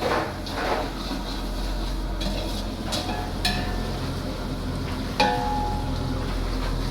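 Sliced onions frying in hot oil in a large pot, sizzling steadily while being stirred with a metal ladle. The ladle knocks against the pot with a ringing clang about three seconds in, again just after, and once more near five seconds in.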